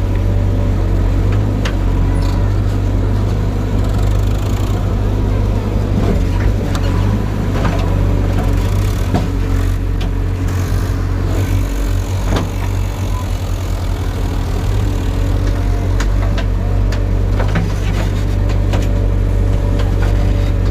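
Diesel engine of a JCB 3DX backhoe loader running steadily, heard close up, with scattered short knocks and rattles.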